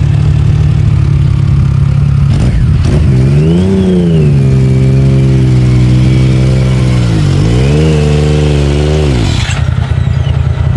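Side-by-side UTV engine running at idle, then revved up about three seconds in and held high. It dips once, revs again, and drops back near the end.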